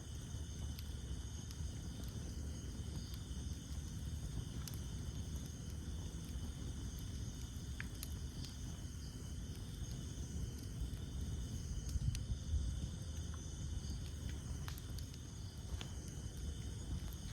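Campfire of burning wood crackling, with scattered sharp pops over a steady low rumble of the flames, a little louder about twelve seconds in. A steady high chirring of insects runs behind it.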